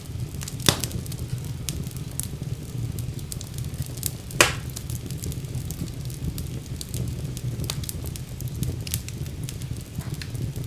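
Wood fire crackling in a fireplace: a steady low rumble of flames with many small ticks and snaps, and two louder pops, one just under a second in and one about four and a half seconds in.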